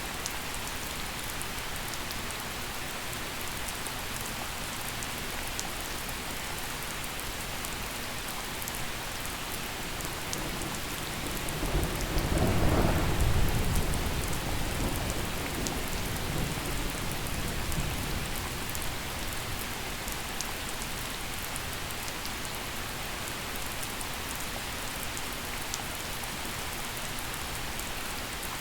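Gentle steady rain falling on surfaces, with scattered drop ticks. About twelve seconds in a roll of thunder rumbles up, peaks for a couple of seconds and fades away over the next several seconds.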